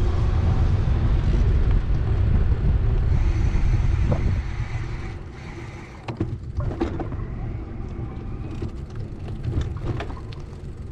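Street and traffic noise heard from a moving bicycle: a heavy low rumble that eases off about four seconds in, then quieter street sounds with a few clicks and knocks.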